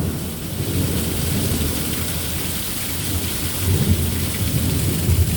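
Heavy rain pouring steadily, with thunder rumbling low underneath that swells about four seconds in and again near the end.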